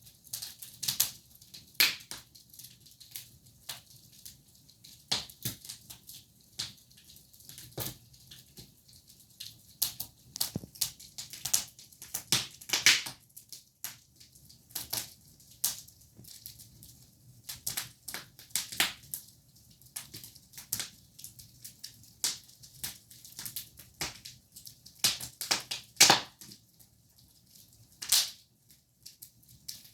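Wood fire burning in a fireplace, crackling with irregular sharp pops, a couple of louder snaps near the end.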